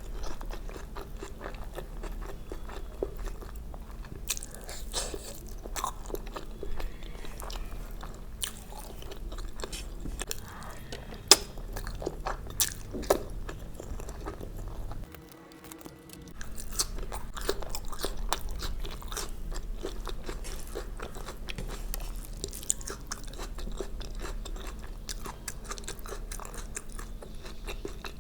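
Close-miked ASMR eating: wet chewing with sharp bites and crunches, mouth sounds crowding densely together, briefly dropping quieter about halfway through.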